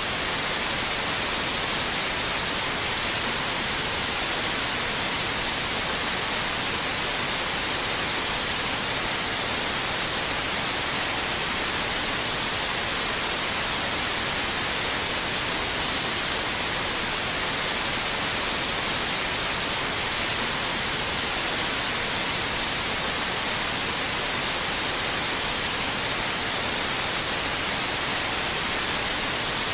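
Steady white noise: an even, unchanging hiss spread across the whole range, brightest in the highs.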